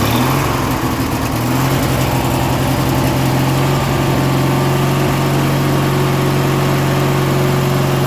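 Engine of a 1997 MTD Yard Machines 42-inch lawn tractor, just started. It runs unevenly for the first second or two, then settles into a steady idle.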